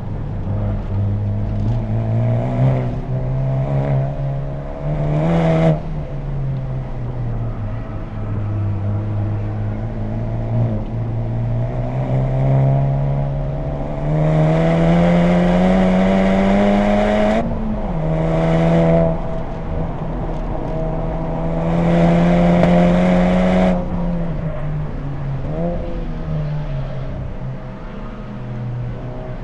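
2020 Honda Civic Type R's turbocharged 2.0-litre four-cylinder, breathing through an HKS Legamax Premium exhaust, pulling hard under full throttle on track. Its note climbs in pitch with the revs, drops suddenly three times at gear changes or lifts, and sits at lower revs near the end.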